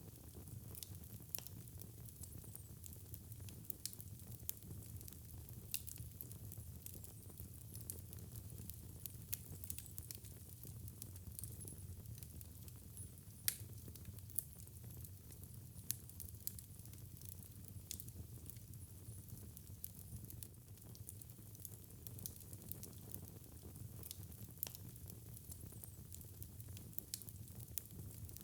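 Fireplace fire crackling, with sharp pops scattered over a steady low rumble; one louder pop about halfway through.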